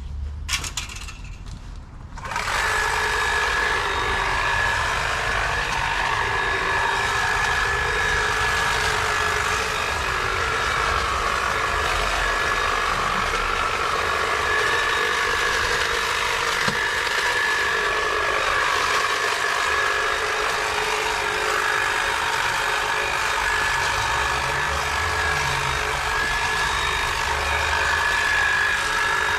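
Stihl battery-powered garden power tool starting up about two seconds in and then running steadily, with a high, even motor whine.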